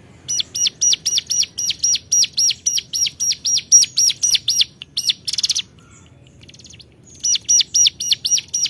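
Ciblek gunung (a prinia) calling in a fast, even series of sharp chirps, about four a second, the challenge call meant to draw out a rival. About five seconds in it gives a brief buzzy rattle, falls quiet for a moment, then takes up the chirping again near the end.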